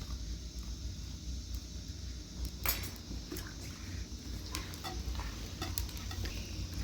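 A few sharp clinks and knocks of hard objects being handled, like dishes or utensils, the loudest about a third of the way in, over a steady low rumble.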